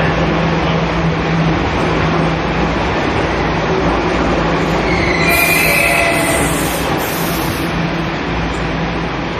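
Keihan Railway electric train running through an underground station, a steady rumble of wheels and motors with a low hum. About five seconds in the wheels squeal briefly on the rails, the loudest moment.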